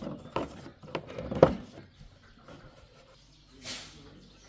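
Small metal parts and hand tools being handled at a workbench: a quick run of clinks and knocks, the loudest about one and a half seconds in, then a short hiss a little under four seconds in.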